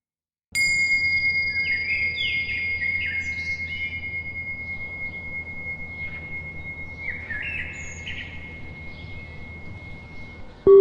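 A small bell struck once about half a second in, its high tone ringing and slowly fading, over birds chirping in repeated quick sliding notes. A deeper, louder bell strikes at the very end.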